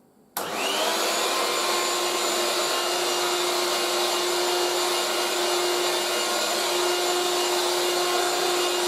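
A 1980s Moulinex 237/320 handheld vacuum cleaner switching on about a third of a second in, the motor briefly whining up to speed and then running steadily with a strong, even hum and whine, fitted with its upholstery tool.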